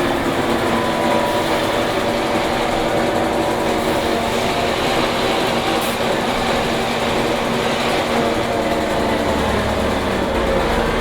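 Scania K270IB bus with its rear-mounted 8.9-litre five-cylinder turbo diesel running at a steady pace, a continuous drone with a steady whine of several tones over road rumble.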